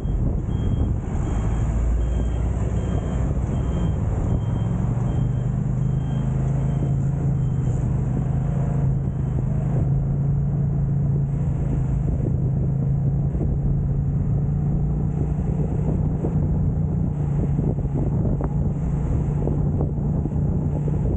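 An engine running steadily under heavy wind noise on the microphone, its low hum growing stronger a few seconds in. A faint high beep repeats about once or twice a second through the first half.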